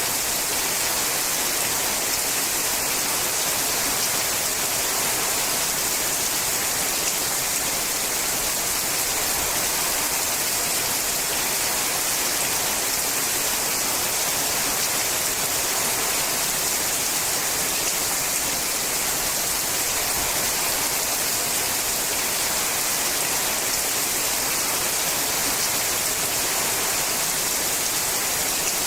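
Steady, heavy rain falling on a sheet-metal roof, an even unbroken hiss.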